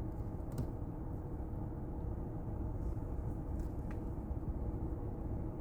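Steady low rumble and hum with a few faint clicks.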